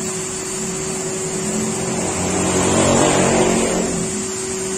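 A motor vehicle's engine passes close by, swelling and fading, loudest about three seconds in. It plays over a steady machine hum.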